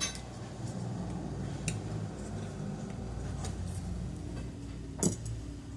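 Light clicks and taps of hand tools and small metal engine parts being handled during a rotary engine teardown, with one sharper metallic knock about five seconds in, over a steady low hum.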